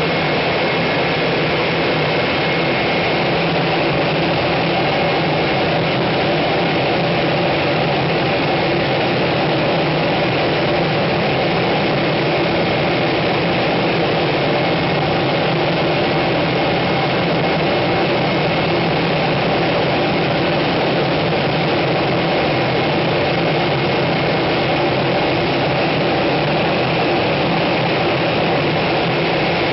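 Solar C306 centrifugal gas compressor running, a loud steady roar of machinery and rushing gas, with buffer gas being returned to the suction port. A faint high whine sits over it for the first few seconds.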